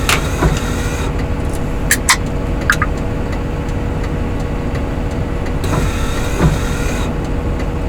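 A vehicle's engine running steadily with road noise while driving on a slippery snowy road, with a few short clicks about two seconds in.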